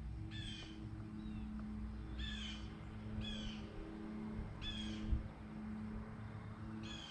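A bird calling repeatedly: about six short calls, each falling in pitch, roughly one a second, over a steady low hum.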